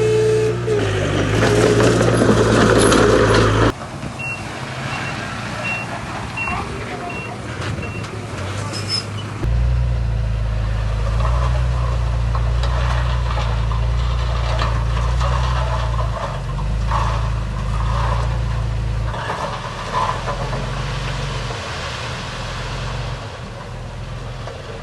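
Heavy diesel earthmoving machinery running, with the sound changing abruptly twice. It is loudest and noisiest in the first few seconds. A reversing alarm beeps steadily, about one beep every 0.7 s, between about 4 and 8 seconds in. After that comes a strong low engine drone.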